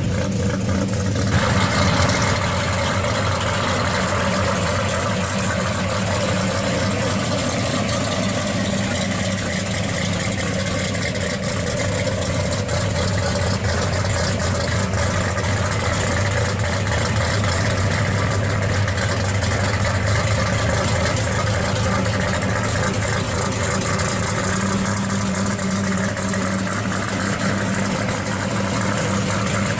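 1970 Plymouth Cuda pro street car's engine idling steadily.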